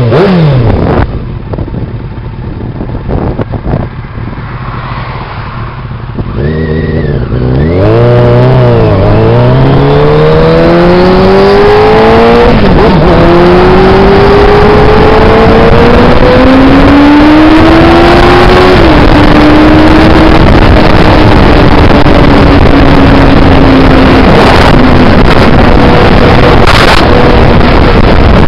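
1992 Yamaha FZR600's inline-four engine pulling away hard through the gears. The pitch rises and drops sharply at each of three upshifts, then holds a steady cruise. Loud wind rush on the microphone comes in about eight seconds in and stays.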